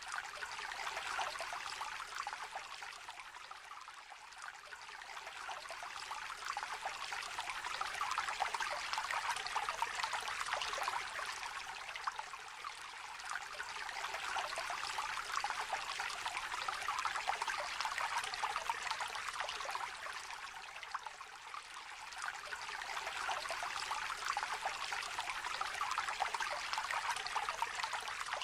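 A small river trickling and babbling, a steady rush of water that swells and eases about every eight or nine seconds.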